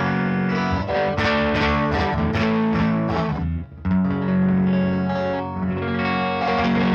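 Electric guitar played through the Big Ear Pedals Albie multi-effect on its second preset, a slapback or doubler-style delay with some drive. Held notes, then a quick run of picked notes, a short break about three and a half seconds in, and a long held note to close.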